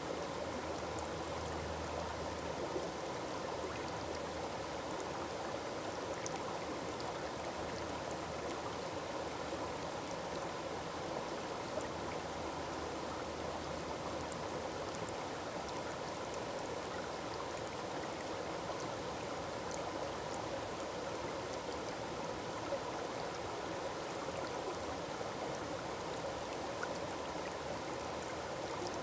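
Forest waterfall splashing in a steady, unbroken rush of falling water, with small droplet ticks scattered through it.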